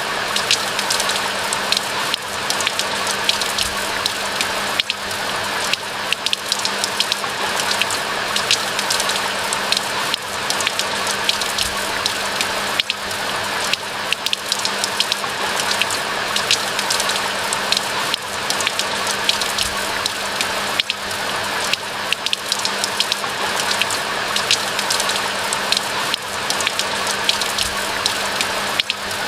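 Steady rain falling, a dense hiss full of many distinct little drop ticks, with a faint steady low hum underneath.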